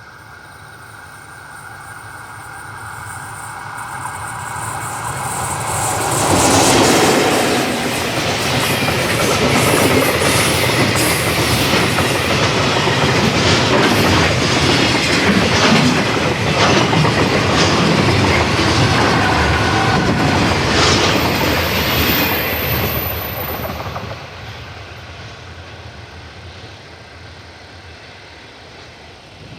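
Freight train passing on the line. Its rumble builds over about six seconds, then a long clickety-clack of wagon wheels over rail joints as the train goes by, fading away after about 24 seconds.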